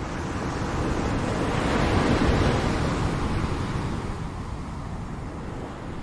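Ocean waves: one wave swells to a peak about two seconds in and then washes back down.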